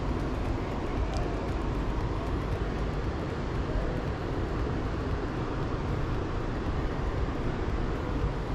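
Fast-flowing river water rushing steadily, a constant even noise with no pauses or changes.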